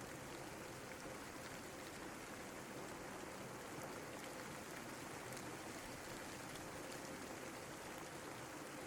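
Steady rainfall: an even hiss with faint ticks of single drops, and a faint steady hum underneath.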